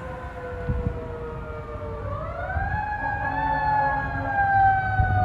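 Fire apparatus siren wailing, its pitch slowly sagging, then rising sharply about two seconds in and slowly sagging again, growing louder as it approaches, with a heavy truck engine rumbling underneath.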